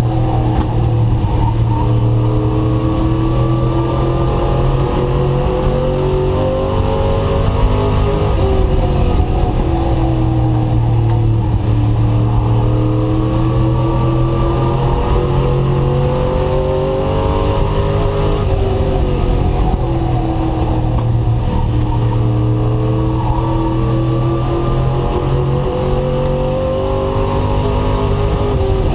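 Race truck's engine heard from onboard at racing speed, its pitch climbing steadily under acceleration and then dropping as the driver lifts, three times over.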